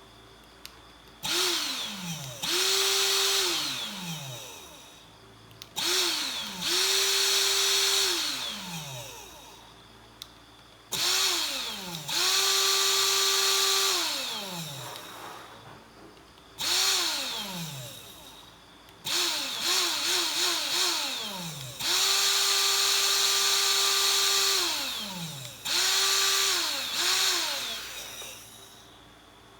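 Electric blower's motor switched on and off repeatedly. Each run spins up fast to a steady whine with a rush of air, holds for a second or a few, then winds down falling in pitch. Twice it is only blipped several times in quick succession.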